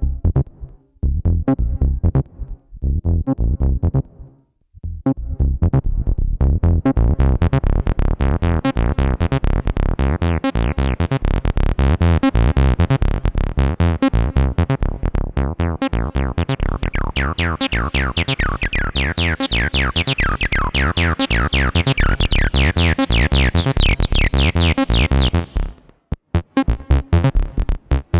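Behringer TD-3-MO 303-style bass synthesizer playing an acid bassline sequence: a few sparse, stop-start notes, then a steady run of fast repeated notes. Partway through the resonant filter opens, so the notes grow brighter with sweeping squelchy peaks, until the pattern stops short near the end and a new one begins.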